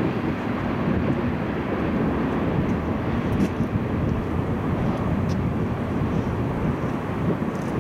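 Steady rumble of a long freight train of ethanol tank cars rolling past on the rails, with a few faint ticks from the wheels.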